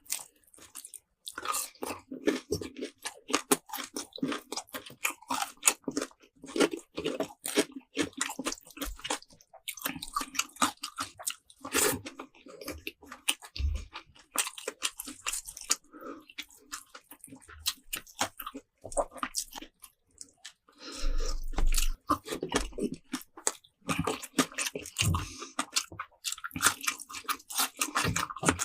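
Close-miked crunching and chewing of crisp food, with bites and rapid crackling chews throughout and a brief pause near the start.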